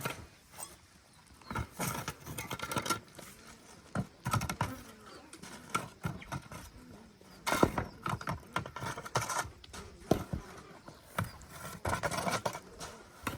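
Irregular knocks and clatters, sometimes several in quick succession and sometimes apart.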